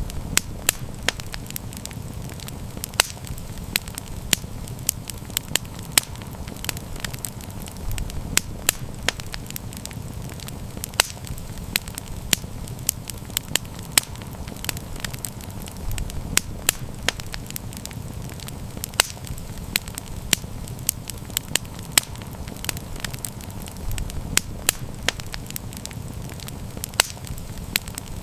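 Wood campfire crackling: irregular sharp pops and snaps, several a second, over a steady low rumble of burning.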